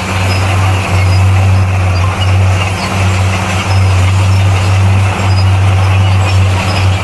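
A bulldozer's diesel engine running steadily under work, a loud, constant low rumble.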